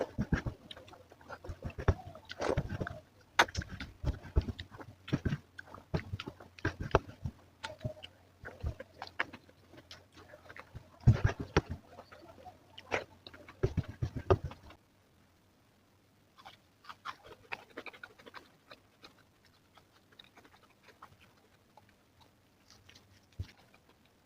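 Close-miked eating: chewing and mouth smacks, a quick irregular run of wet clicks and crunches. About fifteen seconds in, the background drops abruptly and the chewing continues softer and sparser.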